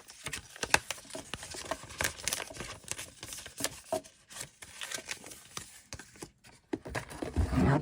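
Packaging being handled, crinkling and rustling with many small irregular crackles, and a dull thump near the end.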